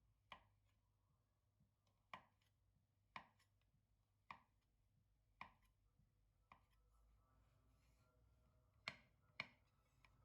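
Eight faint, sharp knocks on a kitchen work surface, roughly a second apart, the last two close together near the end.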